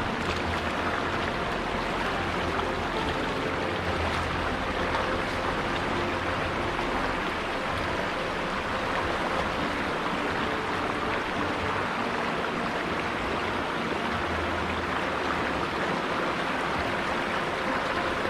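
River water flowing steadily, a constant even rushing with no break, with some low rumbling now and then.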